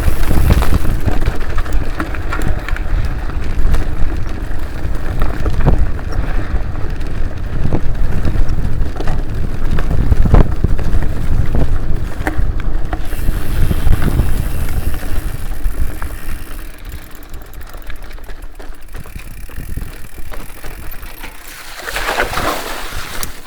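Mountain bike ridden over a dirt trail: wind buffeting the microphone and tyres rumbling, with scattered knocks, easing off in the last third.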